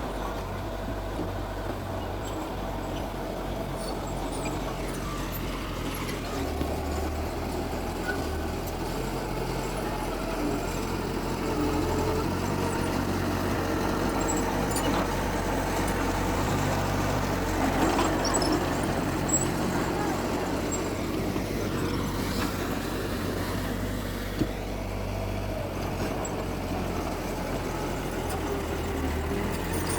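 Heavy diesel earthmoving machinery running steadily, with a few brief sharp knocks.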